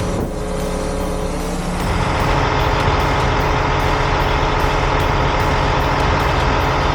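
Heavy diesel engines of rotator tow trucks running steadily under load, growing louder about two seconds in.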